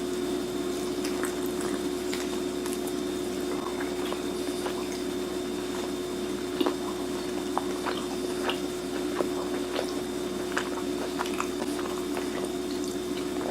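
Eating roast Cornish hen: chewing and moist squishing, with scattered light clicks of knife and fork on a plate, over a steady low hum.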